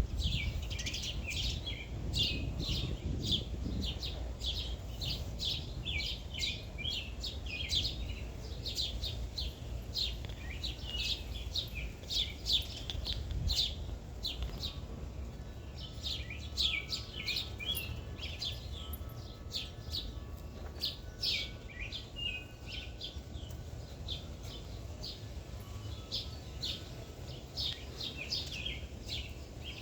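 Several small birds chirping continuously in a busy chorus of short, quick, downward-sweeping chirps, over a steady low background rumble.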